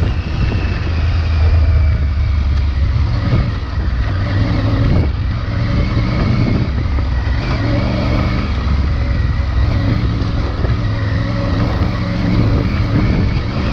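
Triumph Tiger 900 Rally Pro's 900 cc three-cylinder engine through its stock exhaust, pulling the bike along a dirt trail, its revs rising and falling with the throttle.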